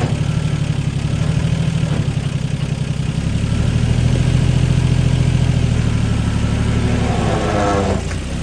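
Engine of an old haystacker idling, its speed picking up slightly for a couple of seconds midway before settling again.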